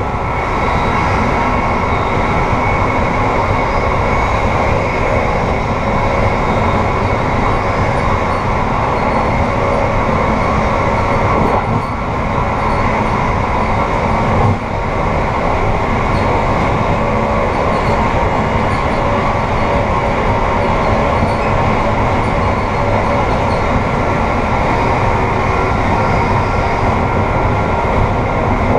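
Amtrak passenger train running at speed, a steady rumble of wheels on rail heard from inside the rear vestibule of the last car, with one short knock about halfway through.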